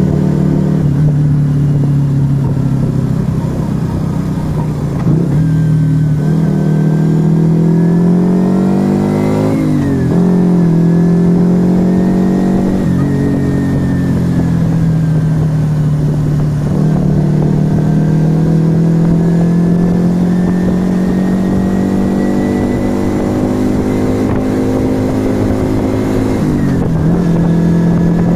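Yamaha XV125 Virago's small V-twin running through an aftermarket Turbo Kit exhaust while riding. The revs climb and drop back twice in the first half of the clip, then hold a long, slowly rising pull before easing off near the end.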